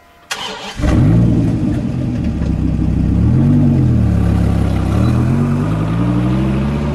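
Dodge Viper's V10 engine firing up with a sudden burst, running with a throttle blip about three seconds in, then pulling away with steadily rising revs.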